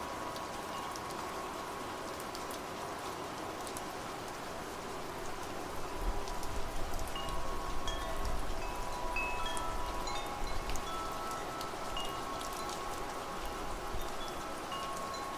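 Wind chimes ringing in scattered, overlapping tones over steady rain, with a low rumble of wind coming in about six seconds in.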